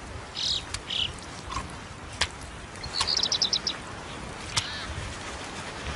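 Birds chirping over a steady outdoor hiss: short high chirps, a quick run of about six high notes about three seconds in, and a few sharp clicks.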